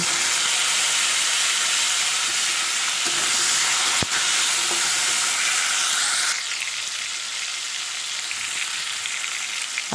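Cubed raw potatoes just dropped into hot oil in a kadai, sizzling hard and stirred with a metal spatula. A single sharp click comes about four seconds in, and the sizzle drops quieter a little after six seconds.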